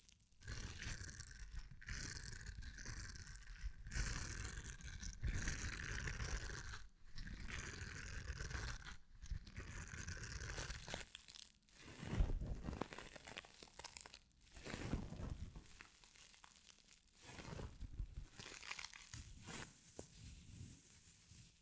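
Close-miked ASMR crinkling and crunching of a crumpled material, in stretches of a few seconds with short pauses between and one sharper crunch about halfway through.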